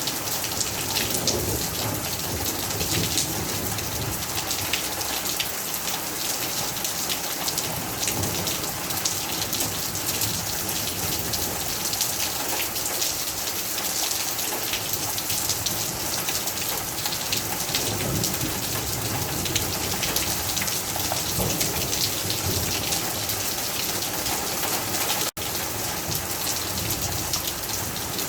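Heavy rain falling steadily: a dense, continuous patter of drops hitting a surface, with a brief drop-out of sound near the end.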